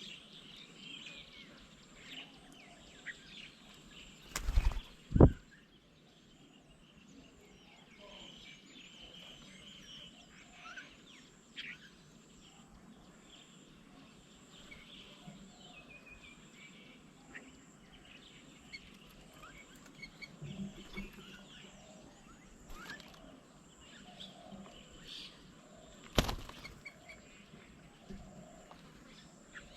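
Small birds chirping and twittering faintly and intermittently over a thin steady high tone. Two loud low thumps come about four and five seconds in, and another about four seconds before the end.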